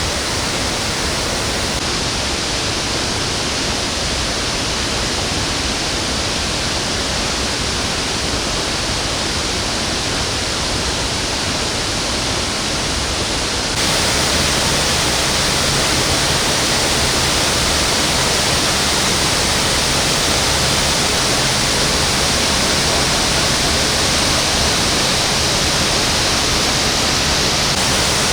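Steady rush of a waterfall's falling water, close and loud. About halfway through it abruptly gets louder, with more high hiss.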